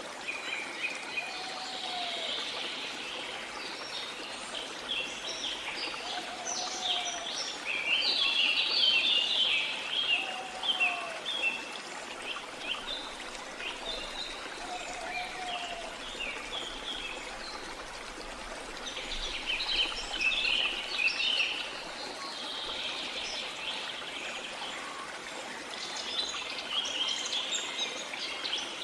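Jungle ambience: many birds chirping and twittering in dense bursts over a steady rush of flowing water. A lower, short call repeats four times, about every four seconds, in the first half.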